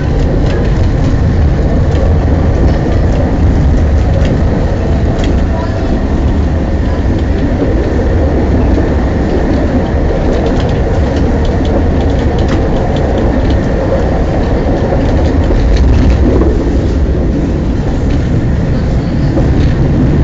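Tram running along the line, heard on board behind the driver's cab: a steady loud rumble of wheels on rails and running gear, with scattered sharp clicks and knocks.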